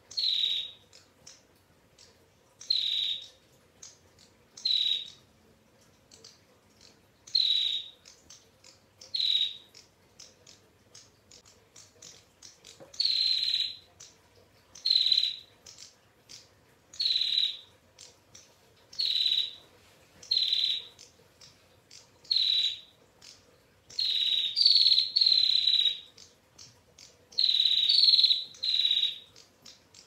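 Caged female prenjak giving its sharp, high 'ngetir' calls. The short calls each dip slightly in pitch and come about every two seconds, with longer, doubled runs in the last few seconds.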